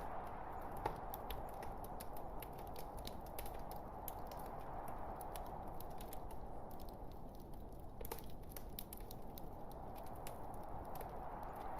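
Log fire crackling: frequent small sharp pops and snaps over a steady soft hiss of burning wood, with one sharper pop about a second in.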